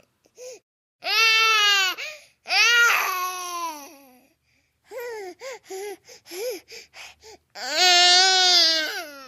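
Cartoon baby-girl crying sound effects: two long wails, a string of short whimpers, then another long wail, each clip separated by silence.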